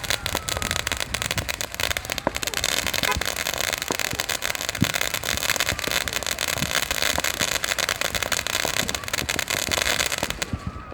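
Fireworks crackling: a dense, rapid run of small pops over a hiss, with a few louder bangs among them, cutting off sharply near the end.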